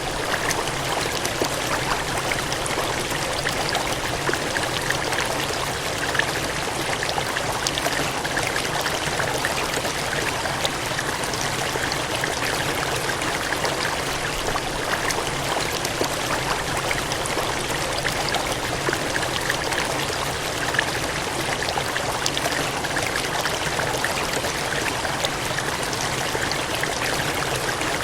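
Water gushing and splashing in a steady cascade, a dense, even rush with fine spattering crackles and no change in level.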